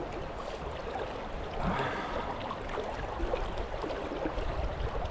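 Fast river current rushing steadily, with a brief louder splash about two seconds in.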